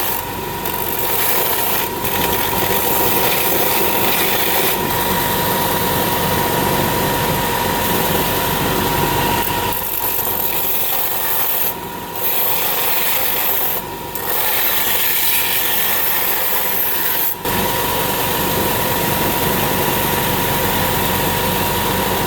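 A power tool abrading a rusted license plate: steady rasping noise over a constant motor whine, with two brief dips about halfway through.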